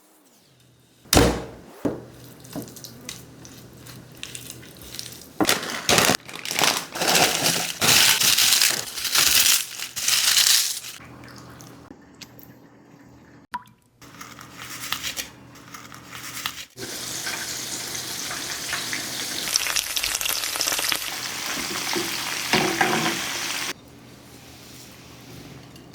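Kitchen cooking sounds in short cuts: a sharp knock about a second in, bursts of hissing and splashing, and then several seconds of steady hiss of chicken frying in hot oil.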